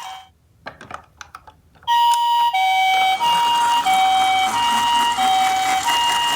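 A few faint clicks, then about two seconds in a toy ambulance's electronic siren starts its two-tone hi-lo "pee-po" call, alternating a higher and a lower beep evenly.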